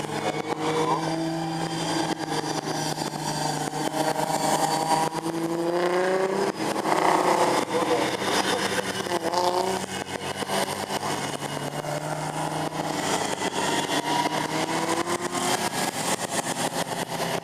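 Saloon race cars' engines running at moderate pace in a group, several engine notes rising and falling in pitch as cars pass and change throttle.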